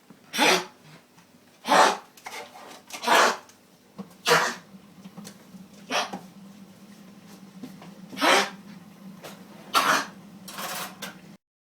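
Yorkshire Terrier coughing in a string of short, harsh hacking coughs, about seven at uneven intervals. This is the cough of kennel cough (infectious tracheobronchitis).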